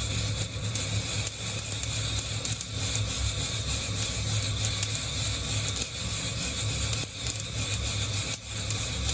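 Gas burner flame giving a steady low rumble under a hand-held mesh coffee roaster, with coffee beans rattling and ticking against the wire mesh as it is shaken, heard as many small scattered clicks.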